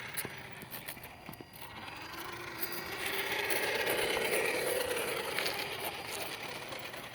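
Toy truck's electric motor whining as its wheels spin and scrabble for grip, the sound rising to a peak around the middle and then easing off.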